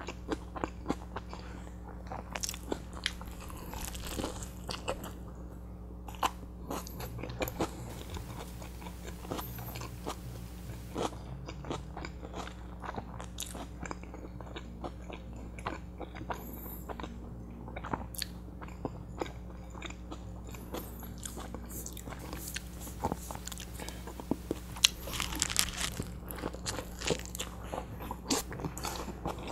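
Close-miked biting and chewing of a large butter chicken burrito: irregular wet mouth clicks and soft crunches, over a steady low hum.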